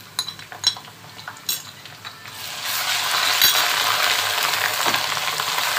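Wooden spoon tapping and scraping in an aluminium pot of browned onions, then, about two seconds in, a loud steady sizzle as ginger-garlic paste and a splash of liquid from the bowl hit the hot oil and are stirred in.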